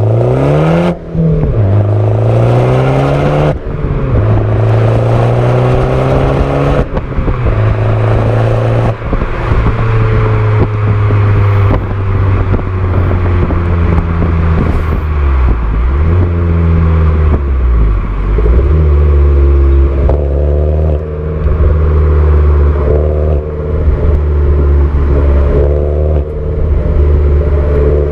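Alfa Romeo Giulietta's 1.4 turbo petrol four-cylinder (170 hp) breathing through a Paris Garage free-flow rear silencer, with the original centre silencer kept. The car is accelerating, its revs climbing and dropping back at two gear changes in the first few seconds. After that it runs mostly steady, with a few dips and rises in revs.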